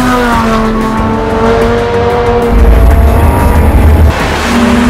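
Aurelio supercar's engine revving as it drives the track, its pitch falling and then climbing again. A deep, loud rumble joins about two and a half seconds in and cuts off suddenly about a second and a half later.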